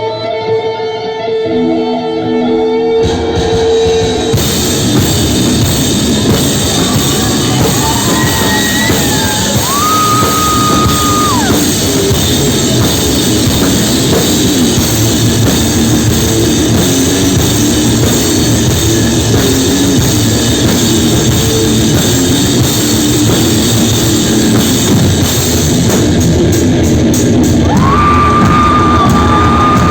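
A rock band playing live. Sparse guitar notes open, then drums and guitars come in together about three or four seconds in and keep going as a loud, steady full-band sound. A high melodic line is held for a second or two twice, once near the middle and once near the end.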